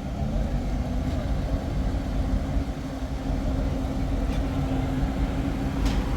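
A motor vehicle's engine running steadily: a low rumble with a held hum.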